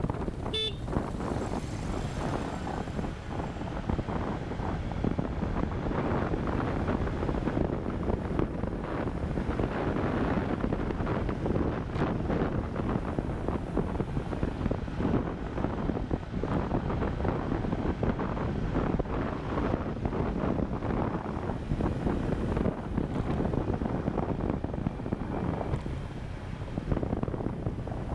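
Wind rushing over the microphone of an action camera riding on a moving motorcycle, with the motorcycle's engine running underneath.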